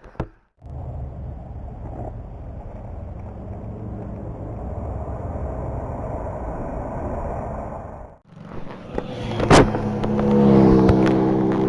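Motorcycle engine running under way with wind rush, cutting out briefly about eight seconds in; after a sharp click, the engine comes back louder, holding a steady note.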